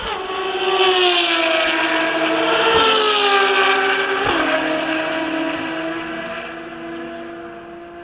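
Ferrari race car engine at high revs. Its pitch falls away, with abrupt steps at gear changes about three and four seconds in, then settles to a steadier note as it fades.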